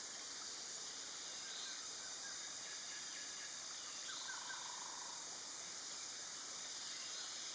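Quiet outdoor ambience: a steady high-pitched hiss, with a few faint, short bird chirps about a second and a half in and again around four seconds.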